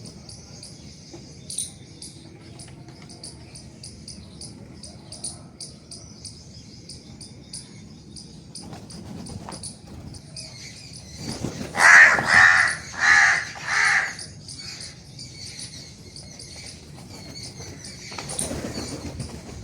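A crow cawing four times in quick succession, over continual high chirping of small birds.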